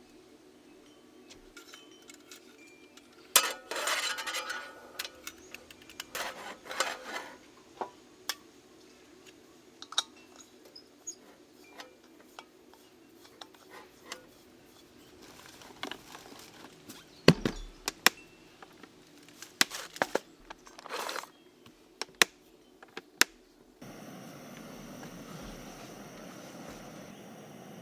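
Scattered clinks, knocks and short rustles of camp cookware and utensils being handled, in two busy spells. About three-quarters of the way through, a steady hiss takes over.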